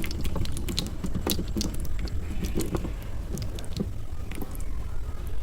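A person eating close to the microphone: irregular crisp crunches and wet chewing clicks over a steady low hum.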